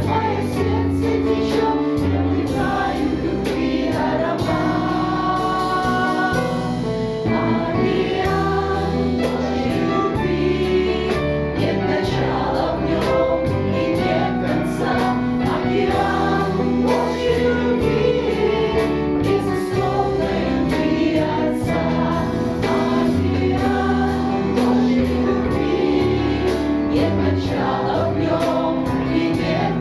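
Choir singing a Christian hymn of praise over a steady bass line, in held, sustained notes.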